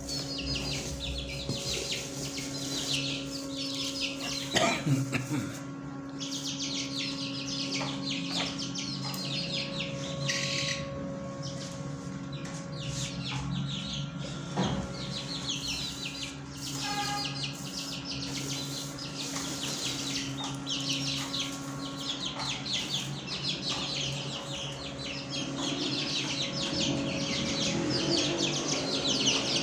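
A flock of kept fancy birds chirping continuously in rapid, overlapping calls, with a steady low hum underneath that drops away about two-thirds of the way through.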